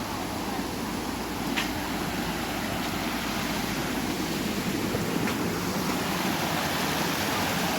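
Steady rush of a waterfall and its stream, an even roar of falling water, with one short click about one and a half seconds in.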